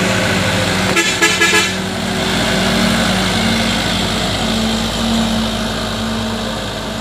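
A vehicle horn toots four quick times about a second in, over the steady running of a vehicle engine.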